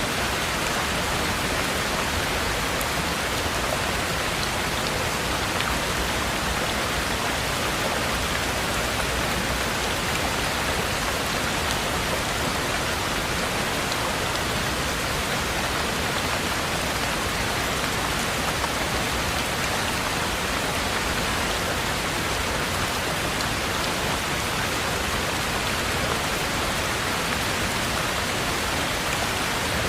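Heavy rain falling steadily, an even hiss of many drops with no breaks or changes.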